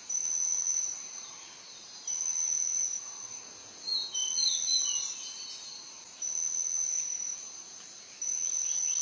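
An insect trilling in high, steady bursts about a second long, repeating roughly every two seconds. A few short, high bird chirps sound between about four and five seconds in.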